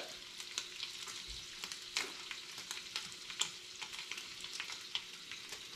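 Fish fillets and bacon frying in skillets on a stovetop: a steady sizzle with scattered sharp crackles and pops.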